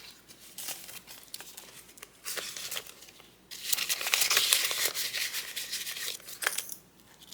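Paper banknotes and a cash envelope being handled, rustling and crinkling. The rustling is light and scattered at first, then louder and continuous for about three seconds in the middle as the bills are stuffed in.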